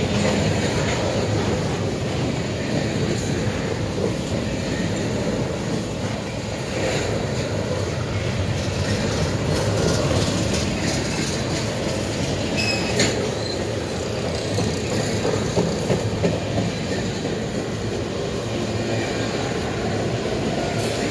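Empty covered grain hopper cars rolling past close by: a steady rumble of steel wheels on the rails, with a few sharp clicks and a brief high squeal a little past halfway.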